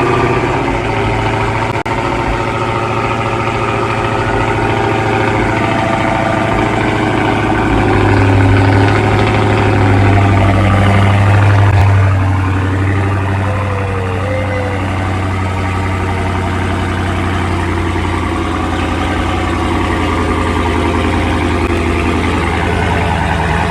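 2017 Dodge Charger Hellcat's supercharged 6.2-litre V8 idling through an exhaust with the mid mufflers deleted, a loud, steady, deep note. It grows a little louder for a few seconds about a third of the way in, then settles back.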